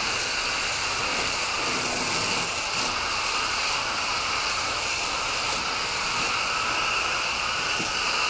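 Steady hiss of water spraying from a garden hose nozzle, rinsing the outdoor condenser coil of an air conditioner during a coil cleaning.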